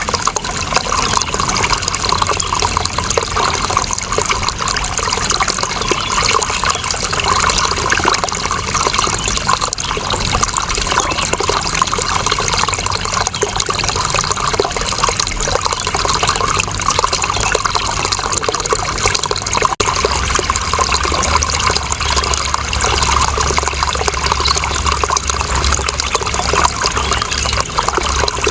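Steady running water, a continuous rushing trickle. There is a brief dip about twenty seconds in, and after it a low rumble underneath is stronger.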